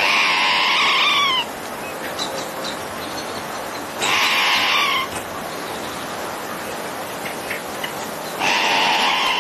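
Squirrel giving three long, high-pitched screeching calls about four seconds apart, each bending down in pitch at its end.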